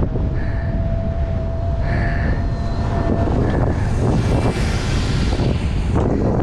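Wind buffeting the microphone of a camera on a moving bicycle, a steady loud rumble, with a thin steady whine over it that stops about three seconds in.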